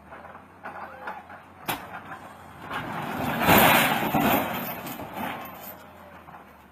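A road vehicle, likely a truck, sounding up close: a broad rush of noise that swells to a peak and fades over about three seconds, after a single sharp knock.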